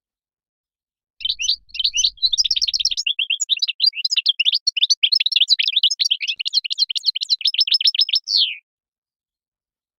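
European goldfinch song: a fast, jumbled twittering run of chirps and trills lasting about seven seconds, starting about a second in and ending with a falling, slurred note.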